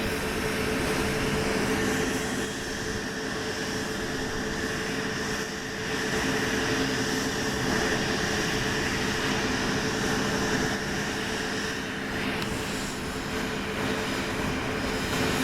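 Jet airliner engines running steadily at low power: a continuous rush of noise with a steady hum beneath it.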